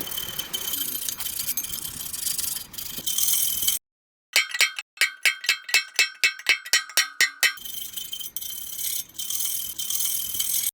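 Steel file rasping on rusted steel, cut in the middle by about three seconds of quick, evenly spaced ringing chime-like notes, about four a second, after which the rasping resumes.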